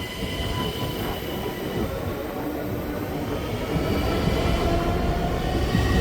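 Train running past: a steady rumble with faint thin high tones over it.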